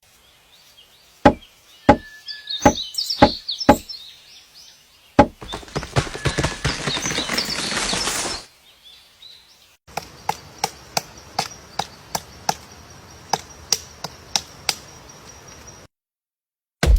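Sharp knocks and taps, like hard strikes on wood: five single knocks, then a fast patter of taps for about three seconds. After a short break come evenly spaced knocks about twice a second over a thin steady high tone, until the sound cuts off abruptly.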